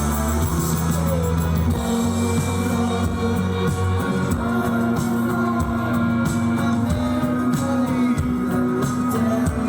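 Live rock band playing with guitars, bass and drums, and a voice singing. The heavy bass thins out about four seconds in.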